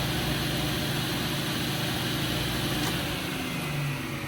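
Craftsman Professional table saw switched on at its start button, the motor and blade at full speed with a steady whirring hum. Near the end the pitch begins to fall as it winds down.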